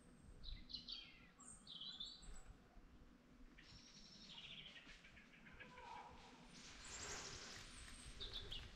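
Faint birdsong: a few short falling chirps in the first two seconds or so, then a longer run of quick twittering notes.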